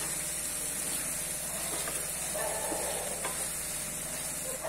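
Chicken pieces frying in masala in a non-stick kadai, a steady sizzle, while a spatula stirs and turns them with faint scrapes and taps against the pan.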